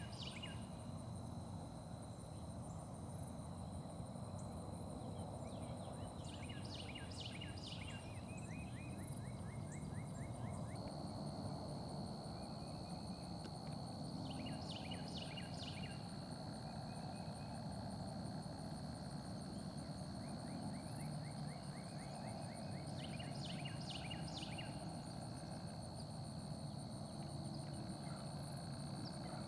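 A songbird singing the same short phrase four times, about every seven seconds: a few quick downward-sliding notes, then a fast lower trill. A steady high-pitched tone runs underneath.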